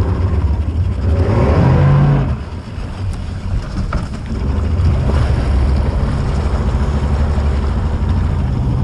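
Boat engine running steadily over wind and water noise, with a brief rise in revs about one to two seconds in.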